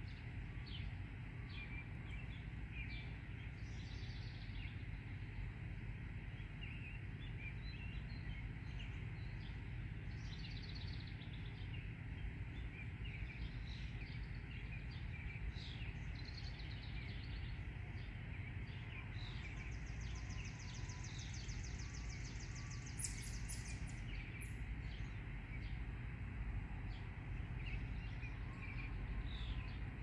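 Small songbirds chirping over and over, with a rapid high trill of a few seconds about two-thirds of the way through, over a steady low background rumble.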